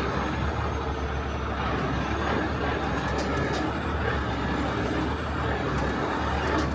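Heavy rotator tow truck's diesel engine running steadily, driving the boom hydraulics during a lift, with a few faint clicks about three seconds in.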